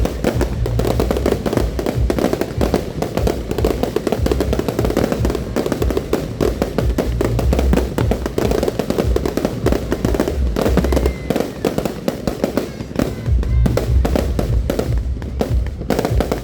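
Fireworks going off in a dense, unbroken barrage of crackles and pops, with low rumbling underneath that swells and fades.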